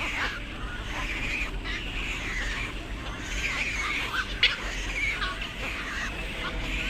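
Several birds calling in a continuous chorus of short chirps and squawks, with a single sharp click about four and a half seconds in.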